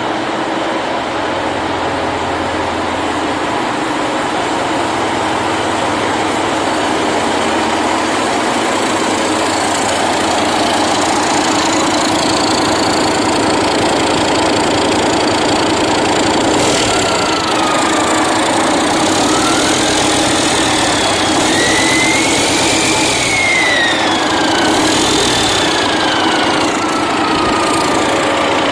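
A motor running steadily. In the second half a whining tone rises and falls over it.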